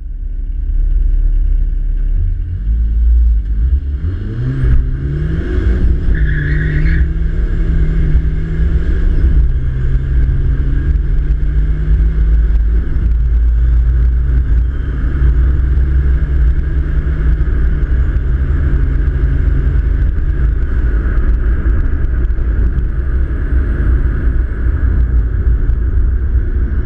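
Tuned turbodiesel engine of a Peugeot 306 rally car with a Holset turbo and straight exhaust, under full-throttle acceleration. The pitch climbs quickly in the first few seconds and drops at each gear change, several times.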